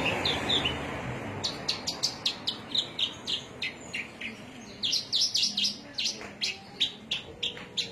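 A songbird singing a quick run of short, sharp, high chirps, about three or four a second, with a brief break about halfway through.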